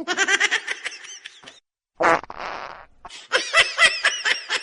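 Bursts of high-pitched laughter, broken about two seconds in by a short buzzy fart-like sound.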